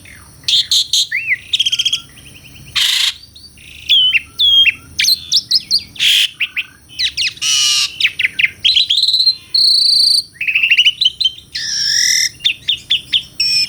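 Asian pied starling (jalak suren) singing a long, varied song: clear whistled notes and quick trills broken by several short, harsh rasping notes.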